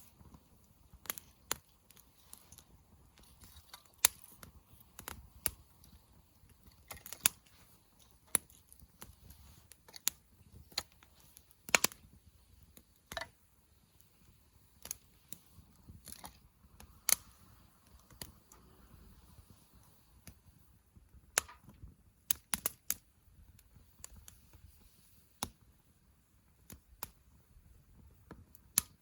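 Wood campfire crackling, with irregular sharp pops, several loud ones among many faint ones, over a soft low rumble.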